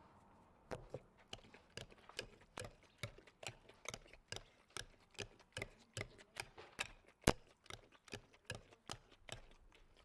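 A kitchen utensil knocking on cookware in a steady rhythm, a little over two knocks a second, starting about a second in.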